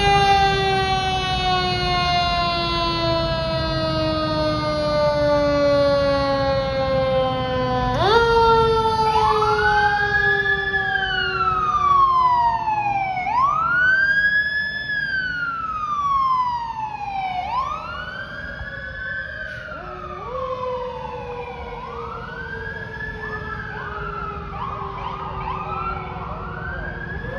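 Fire apparatus sirens: a mechanical siren spun up and left to wind down in a long falling tone, twice, about 8 seconds apart. From about 9 seconds in, an electronic wail rises and falls about every three to four seconds, with several wails overlapping near the end, over the low rumble of the trucks' engines.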